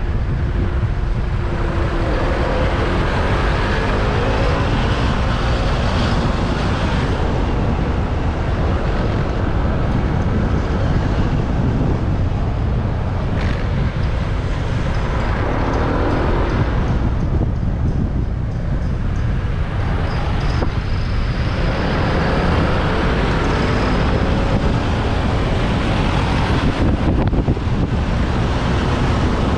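Motorbike ride through busy city traffic: a steady heavy rumble of engines, tyres and rushing air, with an engine's pitch rising and falling several times as it speeds up and slows.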